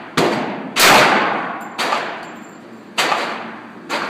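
Handgun shots, five in about four seconds, each with a long echoing decay. One, about a second in, is much louder than the others.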